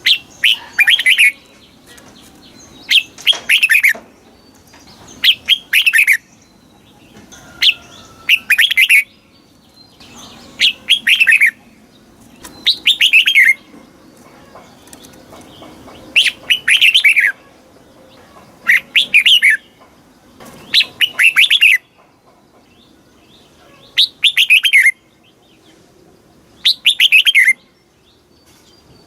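Red-whiskered bulbul singing: short, loud phrases of a few quick falling notes, repeated about every two seconds with brief pauses between them.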